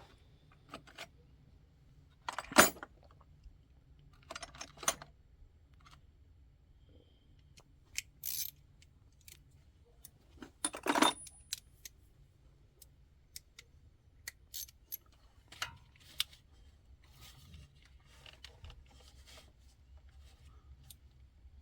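Metal hand tools clinking and clattering as sockets are handled and tried on a fastener: scattered sharp clinks, with a loud knock about two and a half seconds in and a longer rattle around eleven seconds.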